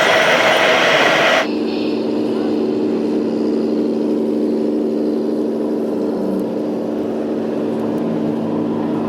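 Radio-controlled model construction machinery running: a loud hiss that cuts off suddenly about one and a half seconds in, then the steady, even hum of small motors.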